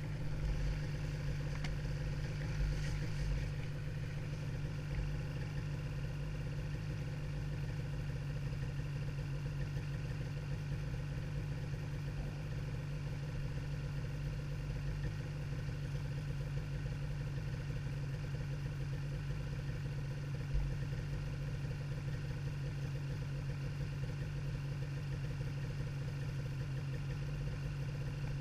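Ski-Doo snowmobile engine running at a steady pace, heard from on the machine. A few low knocks come in the first few seconds and one sharp knock about twenty seconds in.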